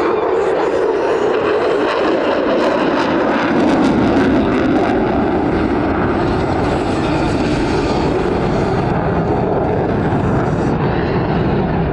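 F-22 Raptor's twin F119 jet engines running at high power in a loud, steady roar, with a crackling stretch between about two and five seconds in.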